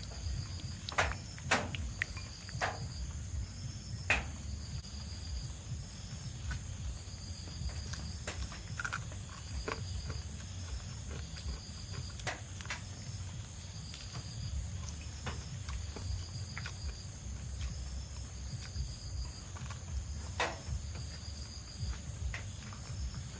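Insects chirping in a steady, regular pulse over a high whine and a low rumble, with scattered sharp clicks and knocks, the loudest about a second in and near the end.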